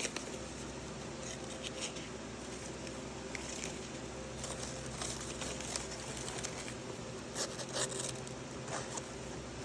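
A dull pocketknife blade dragging through paper in short, scratchy, tearing strokes instead of slicing it cleanly: the edge is dull. A steady low hum runs underneath.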